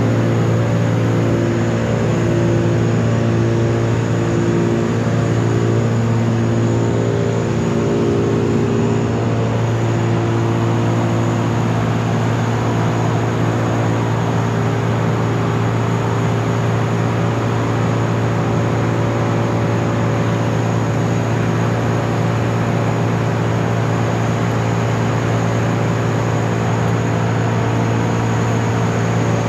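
Heavy engine of tree-removal machinery running steadily under load, its pitch shifting slightly in the first several seconds and then holding.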